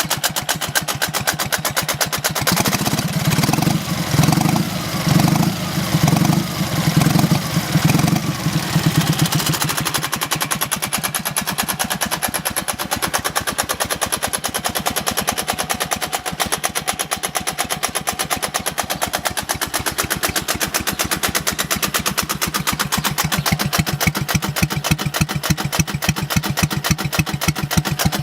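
Dnepr motorcycle's flat-twin engine running with a fast, even knocking, blipped several times in the first ten seconds and then idling steadily. The knock is the fault being traced, placed around the part the owner calls the 'утятница'.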